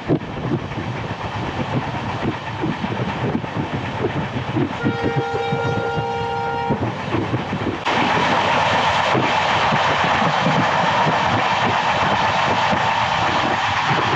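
Passenger train running along the track, a steady rumble with irregular wheel knocks. About five seconds in a train horn sounds, a steady chord lasting about two seconds. About eight seconds in a louder, steady rushing noise sets in and holds.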